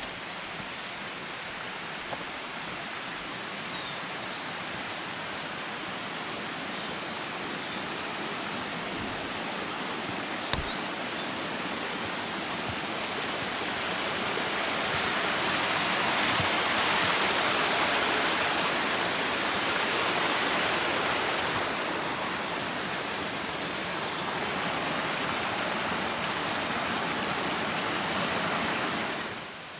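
Steady rush of running water, swelling louder midway and cutting off abruptly just before the end.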